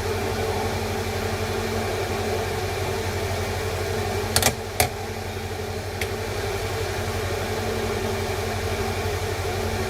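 Steady mechanical hum, with two sharp clicks about four and a half seconds in and a fainter click a little later.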